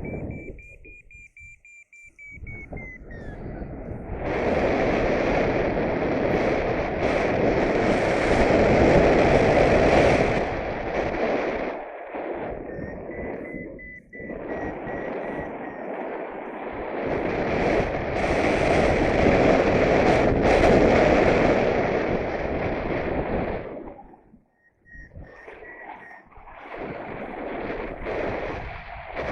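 Heavy wind noise buffeting the microphone in gusts, swelling and dropping away several times. Over it a paragliding variometer sounds a thin steady tone three times: at the start, midway and near the end.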